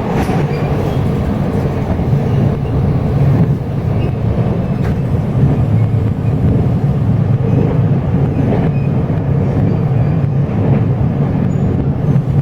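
Taiwan Railways Chu-Kuang express passenger train running, heard from inside the carriage: a steady low rumble of the wheels on the track.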